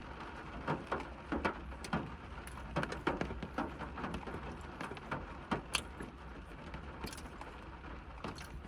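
Raindrops tapping irregularly on a car's roof and windscreen, heard from inside the cabin over a steady low rumble.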